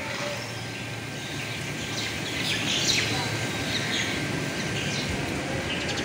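Birds chirping, several short high calls bunched in the middle, over a steady outdoor background hiss.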